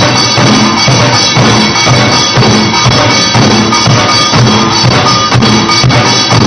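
Korean pungmul drumming: several buk barrel drums beaten hard in a steady, driving rhythm, with a ringing metallic tone sustained over the strokes.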